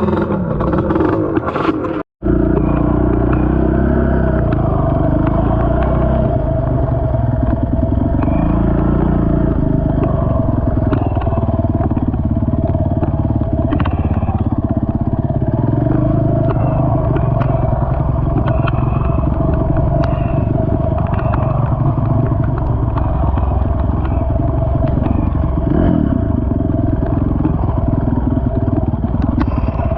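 ATV engine running on a trail ride, its pitch rising and falling with the throttle. The sound drops out for a moment about two seconds in.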